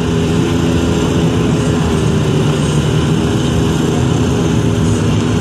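Drag cars' engines idling together at the start line, a steady rumble that holds without revving; one of them is a Camaro SS with the 6.2-litre L99 V8.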